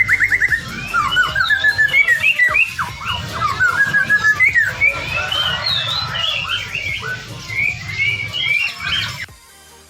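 Several songbirds singing at once, with rapid repeated trills and quick rising and falling chirps that cut off suddenly near the end.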